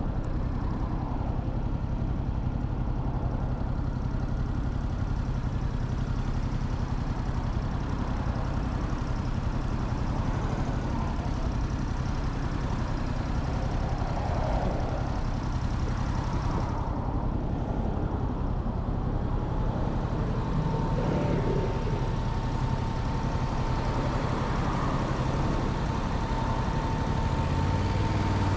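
Motorcycle engine running steadily with road noise, heard from the rider's seat. A thin steady high tone joins about two-thirds of the way through.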